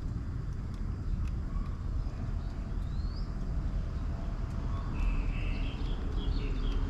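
Birds chirping in short phrases, with one brief rising call about three seconds in and a livelier run of chirps near the end, over a steady low rumble.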